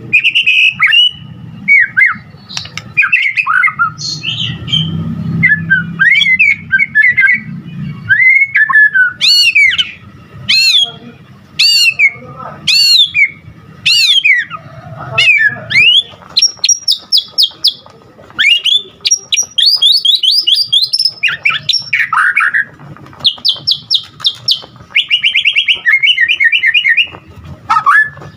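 White-rumped shama (murai batu) singing loudly and without pause: a varied song of whistled phrases, a run of repeated high upswept notes, then fast rattling trills.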